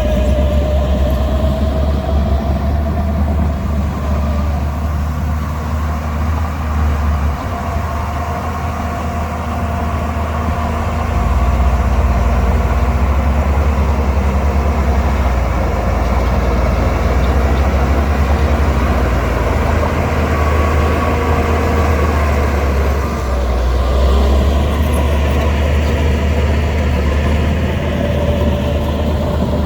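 Shantui DH17C2 bulldozer's diesel engine working under load while pushing dirt. It eases off for a few seconds around eight to eleven seconds in, then comes back up. A fainter whining tone wavers above the engine note.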